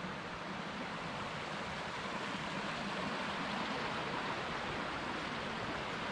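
Steady rush of running water from a mountain stream, swelling slightly in the middle.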